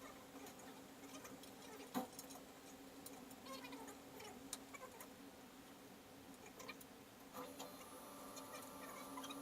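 Faint scattered clicks and light handling sounds over a low steady hum, with one sharper click about two seconds in; a steady higher-pitched tone comes in near the end.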